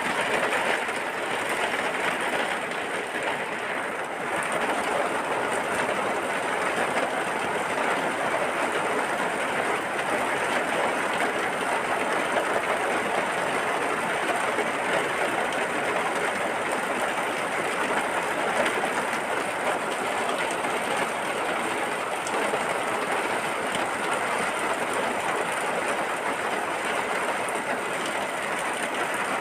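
Steady rain falling, an even unbroken noise.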